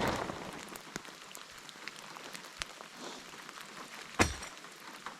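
Steady rain, with scattered drops ticking sharply and one louder knock about four seconds in.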